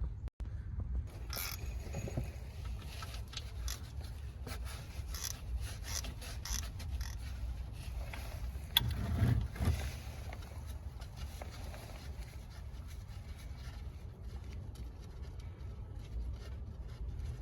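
Ratchet with a 17 mm socket clicking and scraping in irregular short bursts as the oil drain plug is loosened, with one sharper click about nine seconds in. A low steady rumble runs underneath.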